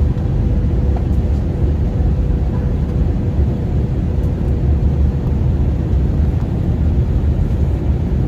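Steady airliner cabin noise in flight: a low, even rumble of engines and airflow with a faint steady hum.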